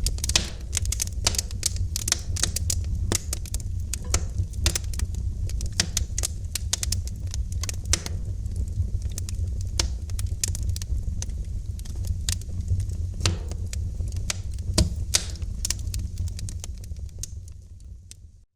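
Wood fire crackling in a fireplace: a steady low rumble of flames with dense, irregular pops and snaps, fading out near the end.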